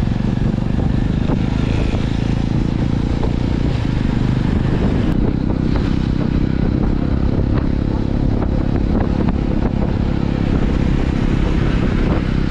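Jawa motorcycle engine running steadily, its low note holding even, with no revving up or down.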